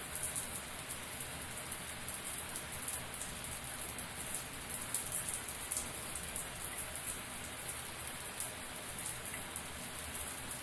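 Shower running steadily, water spraying and pattering on the floor, with a dense spatter of small drop ticks.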